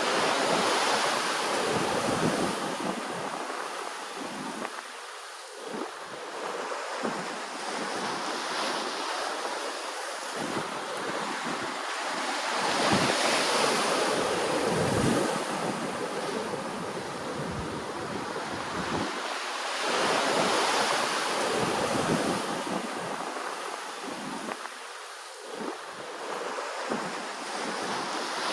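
Ocean waves washing ashore, a steady rushing that swells into louder surges about a second in, around thirteen seconds and around twenty seconds.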